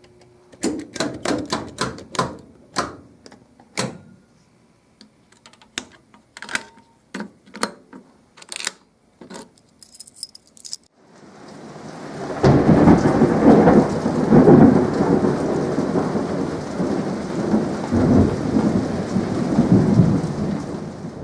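Scattered clicks and knocks, then, about eleven seconds in, a loud, steady rushing spray that builds quickly and lasts about nine seconds: a fire extinguisher being discharged.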